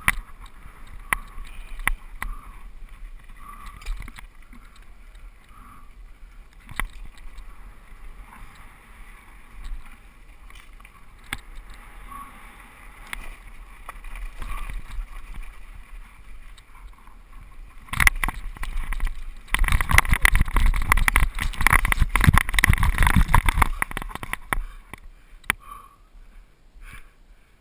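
Mountain bike riding down a rough dirt trail: tyres on dirt and rattling of the bike, with scattered sharp knocks. About two-thirds of the way in, a much louder rough stretch of clattering lasts several seconds.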